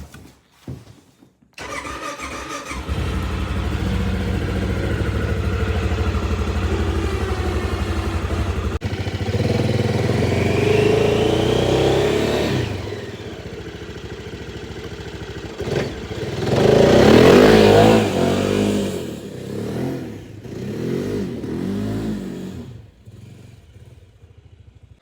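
The engine of a 2023 Tracker 600 starting from cold about two seconds in and running steadily. It is revved up around the middle and again more sharply, with a few smaller blips after that, then quietens near the end.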